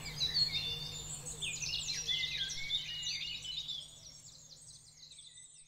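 Songbirds chirping and trilling in quick, varied phrases over a faint low steady hum, the whole fading out gradually toward the end.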